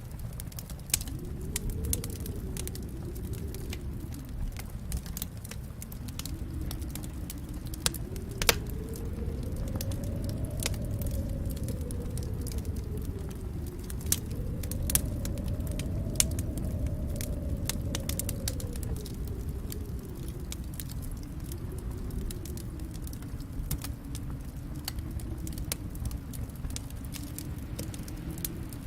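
Wood fire crackling in a fireplace: scattered sharp pops and snaps over a low, steady rumble of flames that swells and eases every few seconds, with one of the loudest pops about eight seconds in.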